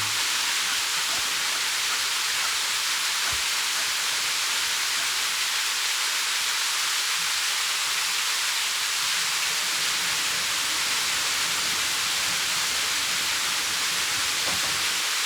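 A mountain stream rushing over rocks, a steady, even hiss of water.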